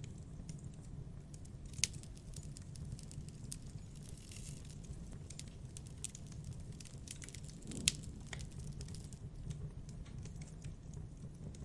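Wood bonfire crackling, with scattered sharp pops that grow denser through the middle and two louder pops about two seconds in and near eight seconds.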